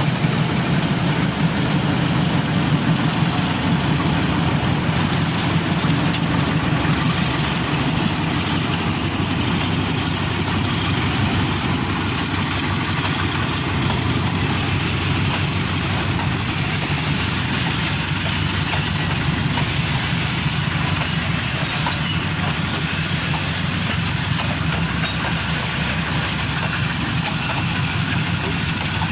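Pair of GE U13B diesel locomotives running with a steady low engine drone.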